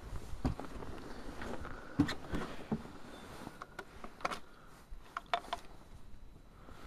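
Irregular clicks and knocks from hands working the controls of a 2007 Arctic Cat 250 ATV ahead of a cold start; the engine is not yet running.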